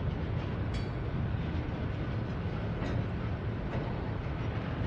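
Freight cars rolling across a steel truss railroad trestle: a steady low rumble of wheels on rail, with occasional clicks and one brief high metallic ring under a second in.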